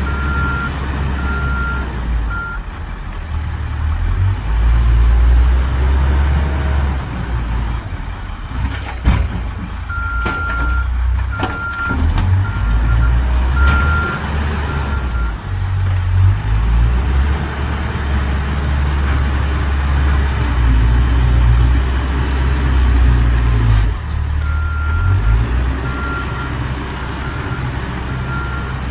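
Caterpillar 416 backhoe loader's diesel engine working under load, its pitch and loudness rising and falling, with the reversing alarm beeping in three spells: at the start, in the middle, and near the end. A few sharp knocks in the middle.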